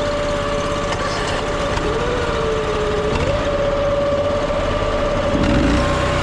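Pressure washer engines running steadily just after being started, with a continuous rumble and a steady high whine; a second, wavering tone comes in briefly around the middle, and the low rumble grows heavier near the end.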